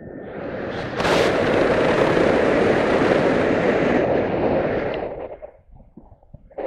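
A gust of wind buffeting the microphone: a rumbling rush that builds about a second in, holds, and dies away near the end.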